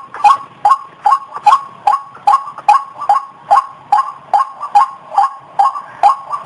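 White-breasted waterhen calling: a fast, even series of short, loud notes, about two and a half a second.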